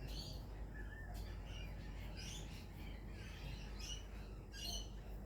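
Birds chirping: many short, high calls in quick overlapping bursts, over a steady low background rumble.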